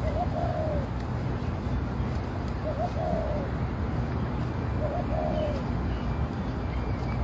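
A bird calling three times, each call short and arched, about two and a half seconds apart, over a steady low background rumble.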